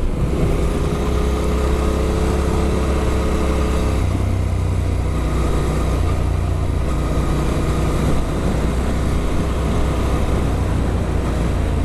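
Adventure motorcycle with an Arrow aftermarket exhaust running steadily under way. Its engine note shifts about four seconds in.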